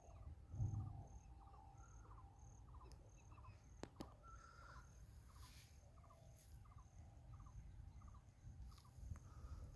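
Faint outdoor animal sounds: a short three-pulse call repeating about twice a second, over a thin, high insect chirp pulsing at a similar rate, with a single click near the middle.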